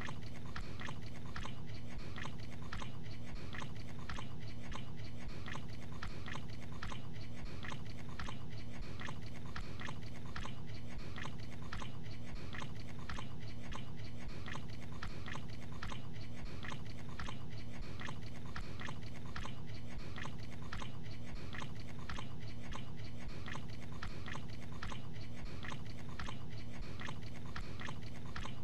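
A man chewing gabagool (capicola) with his mouth open, making wet smacks at about two to three a second in an even, unbroken rhythm.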